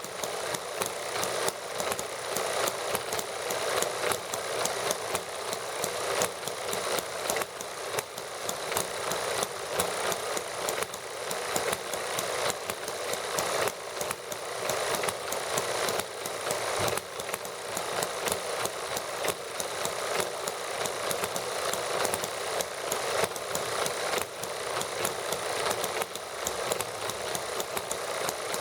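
Several small model gasoline engines running steadily together, a fast, even clatter of firing strokes.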